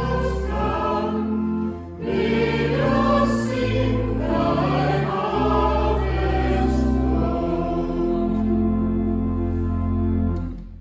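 Church pipe organ accompanying choir and congregation singing a hymn, with long sustained bass notes under the voices. The final chord is held for a couple of seconds and fades out near the end.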